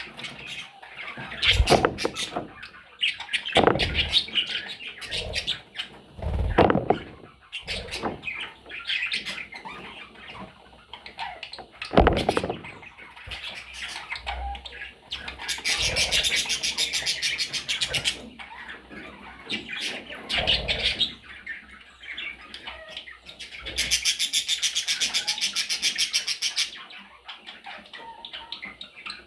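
Small pet parrots chirping and squawking, with a few dull thumps and two spells of fast, even fluttering lasting about two seconds each.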